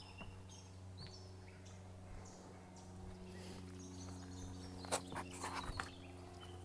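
Small birds calling in short, high chirps over a steady low hum, with a brief burst of rustling about five seconds in.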